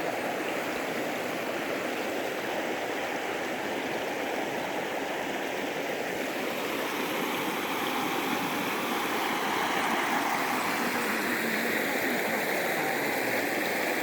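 Waterfall: water falling and rushing in a steady, continuous roar.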